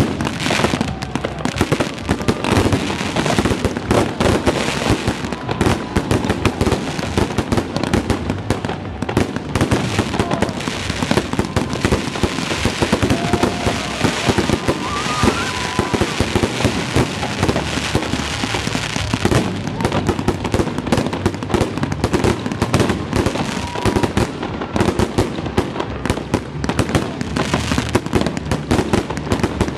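A fireworks display: aerial shells bursting and crackling in a dense, continuous barrage of bangs and pops.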